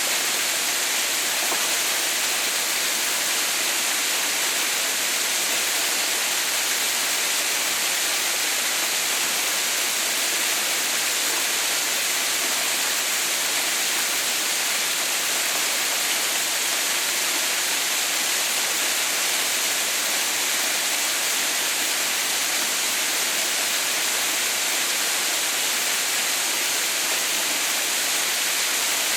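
Water pouring steadily down the ice-bound Haha no Shirataki waterfall: an even, unbroken hiss, strongest in the high range, with no separate splashes or events.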